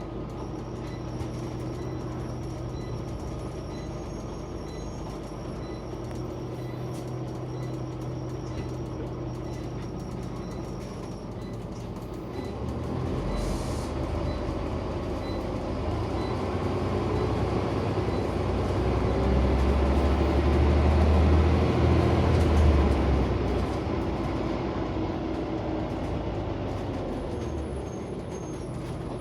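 Scania OmniCity single-deck bus heard from inside the passenger cabin, its engine running steadily. About twelve seconds in, the engine grows louder and deeper as it works harder, peaking a few seconds before the end, then eases back.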